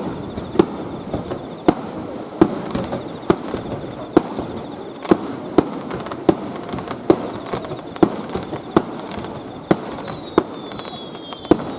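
Fireworks bursting overhead in a rapid series of sharp bangs, roughly one every half second to a second.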